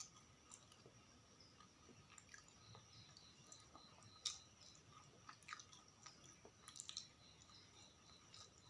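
Close-miked chewing of sausages and fries: faint wet clicks and smacks of the mouth, the sharpest about four seconds in and a quick cluster near seven seconds.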